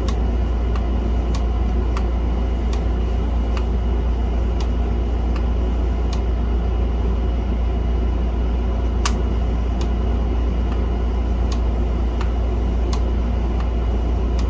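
A steady low hum, with light, irregular clicks of small parts being handled as the floppy drive's mechanism is greased.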